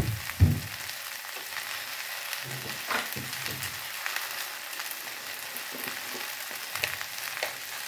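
Sliced okra (bhindi) with onion frying in oil in a kadhai: a steady sizzle, with a short low thump about half a second in and a few light clicks later.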